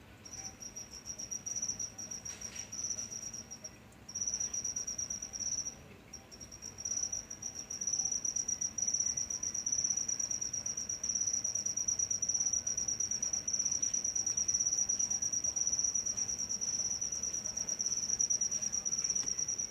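A cricket trilling: a high-pitched, steady pulsed song that stops briefly twice in the first few seconds, then carries on without a break.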